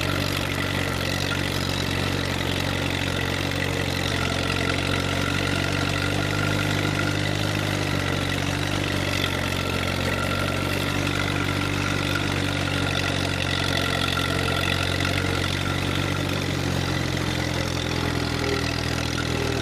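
Truck engine running steadily at low speed, its pitch shifting slightly a couple of times as the revs change.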